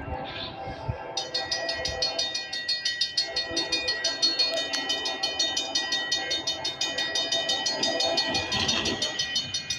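Norfolk Southern grain train rolling past, with steady tones from the locomotives throughout. About a second in, a steady high ringing with rapid, even ticking sets in and continues.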